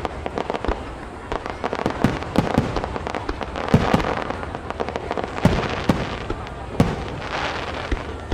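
Fireworks display: aerial shells bursting in quick, irregular succession, sharp bangs over a continuous rumble and crackle.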